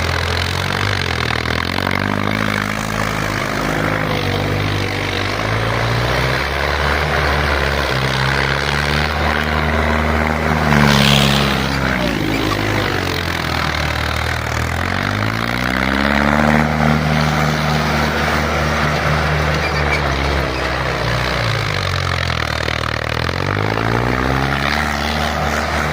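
Tractor engine running under load, its revs rising and falling in slow surges every several seconds. A brief hissing burst comes about eleven seconds in.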